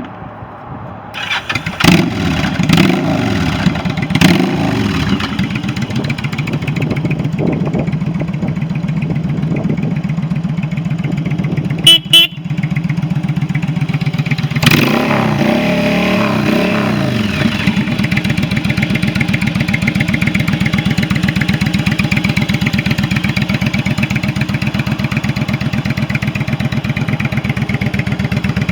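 2003 Yamaha V-Star 1100's air-cooled V-twin starting up about a second in. It is blipped a few times, briefly cut near the middle and revved again, then settles into a steady idle for the second half.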